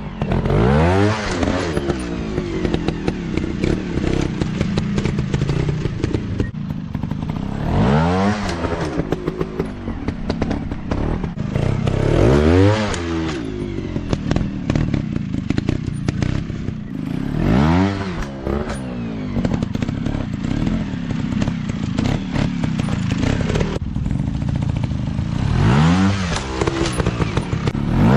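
Small off-road motorcycle engine revved hard in about five bursts, each rising sharply in pitch and falling back, running between them, with scattered knocks and clatter.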